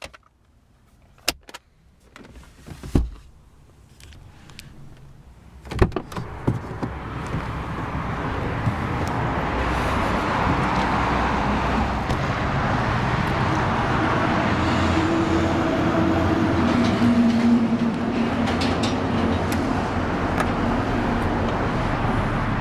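Clicks of a car latch and two heavy thumps, the second like a car door shutting. Then a steady rushing noise of traffic and open air.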